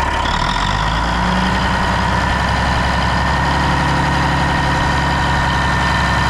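1981 Peterbilt 359's diesel engine idling steadily, fully warmed up, with the slight whine of the gears at the front of the engine running over it as a steady high tone. The engine note shifts slightly about half a second in.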